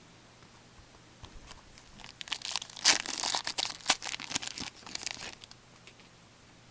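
A trading-card pack wrapper being torn open and crinkled, with a run of sharp crackling from about two seconds in until about five and a half seconds in.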